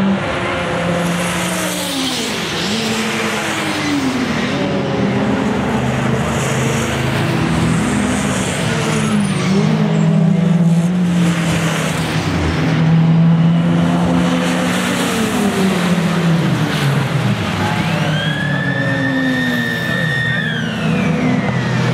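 Sports and saloon racing cars running at race speed past the microphone, their engine notes rising and falling as they accelerate, shift gears and sweep by. A high whine rises and holds for about three seconds near the end.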